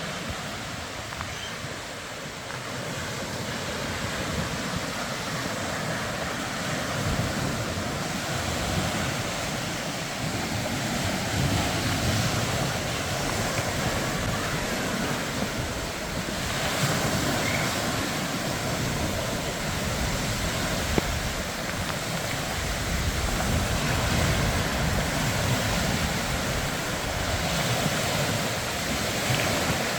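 Steady rushing of wind outdoors, with uneven low gusts buffeting the microphone.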